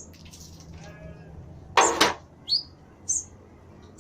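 Small birds chirping: short high chirps, several of them falling in pitch, come about once or twice a second over a low steady hum. A brief loud noisy burst comes about two seconds in.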